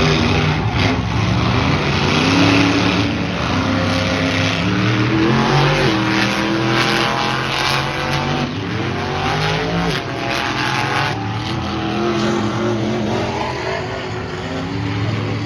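Monster truck engines running loudly and revving, their pitch rising and falling in several sweeps.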